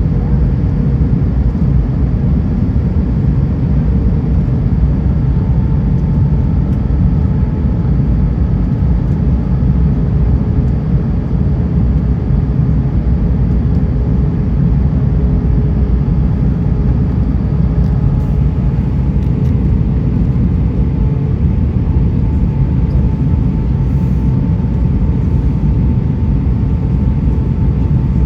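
Airbus A320 cabin noise heard from a window seat: a steady low rumble of the jet engines and airflow, with faint steady engine tones running through it.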